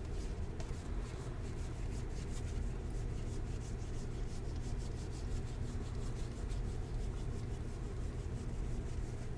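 Baseball cards sliding and rubbing against one another as a stack is flipped through, a long run of soft rapid flicks over a steady low hum.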